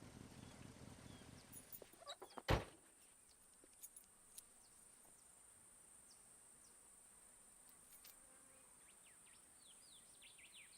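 A car engine idling stops about a second and a half in, followed by a few clicks and one sharp car door slam. After that it is quiet outdoors, with a steady high whine and a few short bird chirps near the end.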